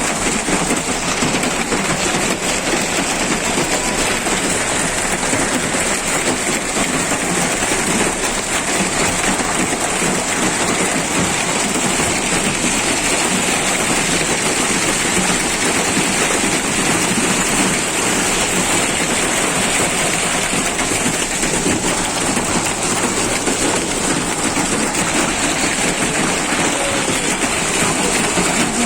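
Hail and rain pelting down steadily: a dense, even patter of countless small impacts.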